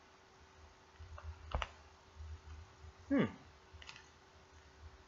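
Crunching and sharp cracks of a hard chocolate-coated coconut candy being chewed, with a few scattered clicks. A short vocal sound falls quickly in pitch about three seconds in.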